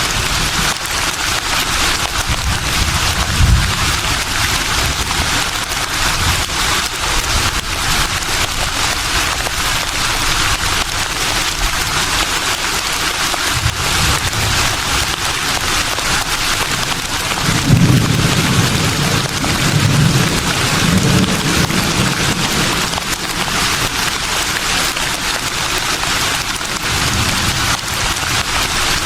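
Breeze rustling through leaves as a steady, dense, crackling hiss. Low rumbles of gusting wind swell a few seconds in and again for several seconds past the middle.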